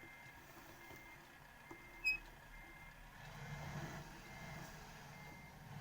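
Vehicle reversing alarm beeping steadily, one short high beep a little under once a second. A sharp brief chirp about two seconds in, and a low vehicle rumble swells for a second or so after it.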